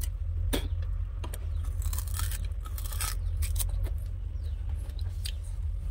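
A person biting and chewing raw sugarcane: irregular crunching and tearing of the fibrous stalk.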